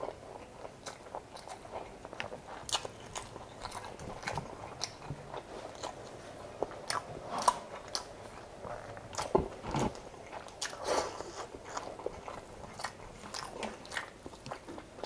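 Close-miked chewing and wet mouth sounds of a man eating rice and chicken adobo by hand, with irregular clicks and smacks throughout, a few louder ones around the middle.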